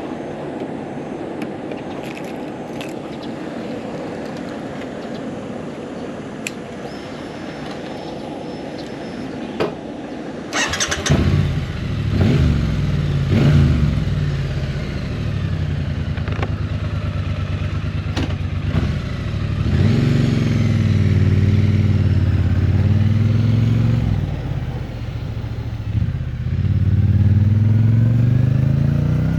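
Triumph Bonneville T100's 900 cc parallel-twin engine starting about eleven seconds in, right after a sharp click, then running with its note rising and falling. Before it starts there is only a steady background hiss with a few faint clicks.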